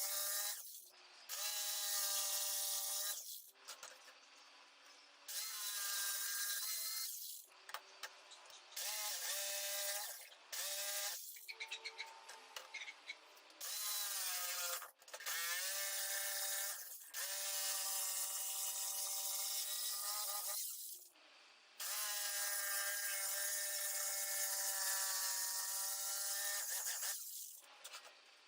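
Electric drill running in about ten repeated bursts of one to five seconds. Its whine rises in pitch as the trigger is squeezed and falls as it is let off, with a hiss over the top.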